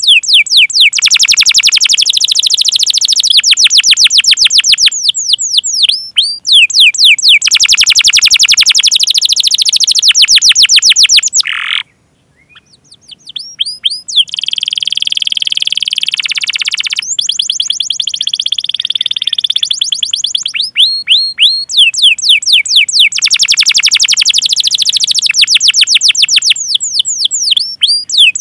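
Canary singing: long runs of sharp, quickly repeated downward-sweeping "cuit cuit" chirps and rapid rolling trills. There is a brief pause about twelve seconds in, followed by a dense warbled phrase.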